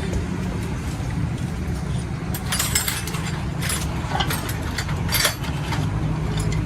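A steady low mechanical hum with a few sharp metallic clinks of tools or parts being handled, the clearest about two and a half, three and a half and five seconds in.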